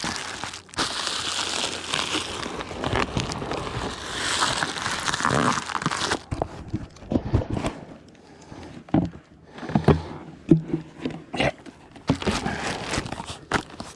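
Crinkling and rustling as a beehive is closed up and its parts handled and tucked in, for about six seconds. After that come scattered knocks and clicks.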